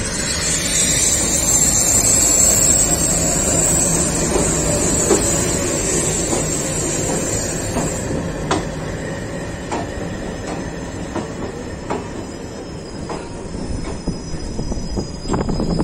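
Express train's wheels running on the rails, a steady rumble with a high wheel squeal over about the first half. Then come scattered clicks and knocks of the wheels over the track, more frequent near the end.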